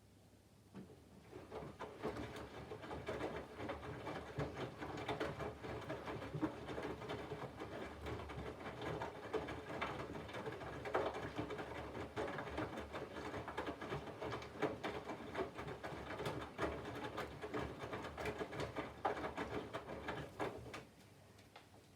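Candy front-loading washing machine drum turning during the water-heating phase of a 40° colours wash, with wet laundry patting and splashing inside over a low motor hum. It starts about a second and a half in and stops about a second before the end.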